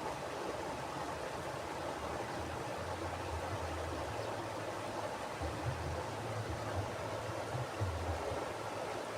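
Mountain river flowing over rocks: a steady rushing of water, with low rumbles that rise and fall through the second half.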